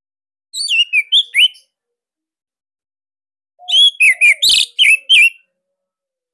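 Orange-headed thrush (anis merah) singing loud, clear whistled notes with quick upward and downward slides. It sings two short bursts of song: one about half a second in and a longer one about four seconds in.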